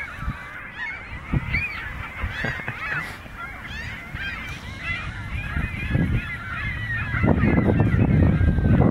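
A flock of geese honking, many calls overlapping. About seven seconds in, a loud low rumble comes in over them.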